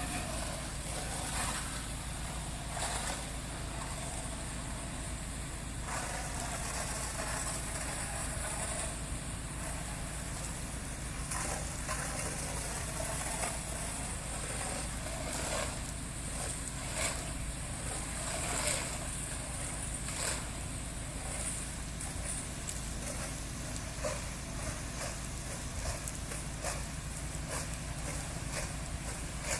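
Pressure washer engine running steadily, with a hiss of water spraying at low pressure and a few short clicks and knocks.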